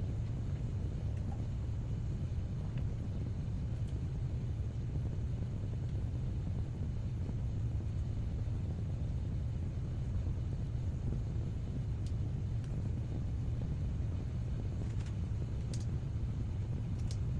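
Steady low background hum, with a few faint clicks near the end.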